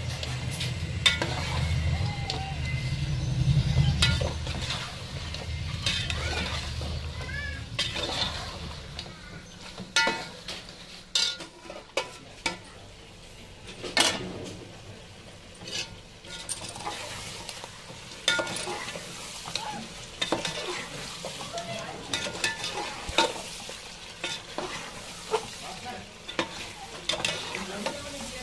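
Chicken pieces frying in masala in a metal pot, sizzling steadily while a metal spoon stirs and scrapes them, knocking sharply against the pot's sides again and again. A low rumble underlies the first several seconds.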